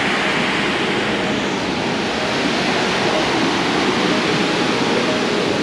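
Loud, steady rush of Burney Falls, a big spring-fed waterfall, pouring into its pool in full flow ('raging').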